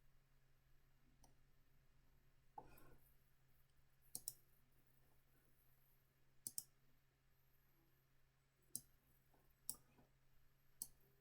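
Faint computer mouse clicks, a few single and double clicks spaced a second or more apart. There is a short soft rustle about two and a half seconds in.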